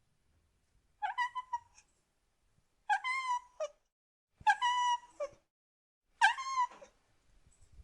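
A cat meowing four times, about a second and a half apart. Each meow is a high, even call that ends in a short drop in pitch.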